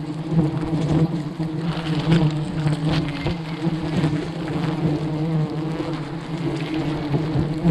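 A dense swarm of honeybees buzzing as one steady, droning hum, with scattered short knocks and rustles over it.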